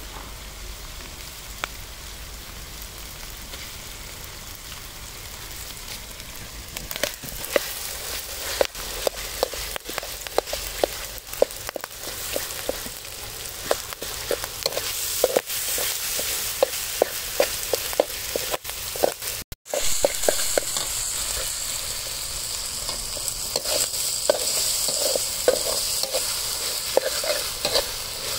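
Shrimp paste and minced pork frying in a pan: a steady sizzle, with a utensil tapping and scraping against the pan many times from about seven seconds in. The sound drops out for a moment about two-thirds of the way through, and the sizzle is louder after that.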